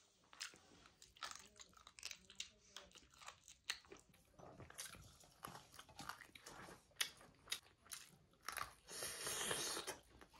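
Close-up mouth sounds of a man eating chicken curry and rice by hand: chewing with quick, irregular wet clicks and smacks, and a hiss of about a second near the end.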